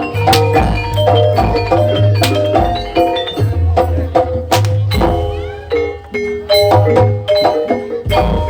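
Javanese gamelan music for a jaranan dance: metal mallet instruments play a quick run of ringing notes over a sustained low tone, with sharp drum strikes cutting in every second or two.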